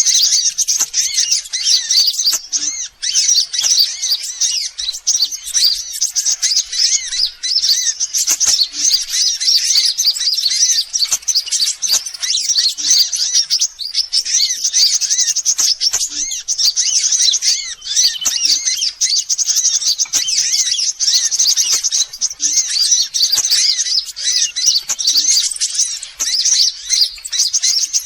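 Sunbirds chirping and twittering in a dense, continuous stream of fast, high-pitched notes: a recording used as a bird lure to draw sunbirds in.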